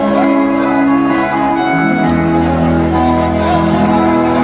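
Live luk thung band playing an instrumental passage: sustained chords over a steady beat, with a bass line coming in about halfway through.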